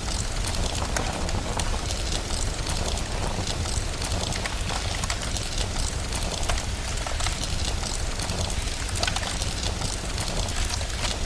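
Steady rain hiss with the dense, irregular popping and crackling of a wood fire throughout.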